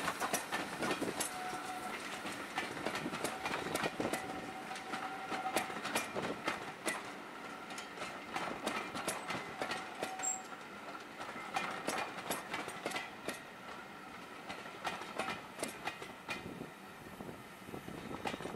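Passenger train coaches rolling past, their wheels clicking over rail joints and pointwork in an irregular clatter, with a thin squeal that comes and goes.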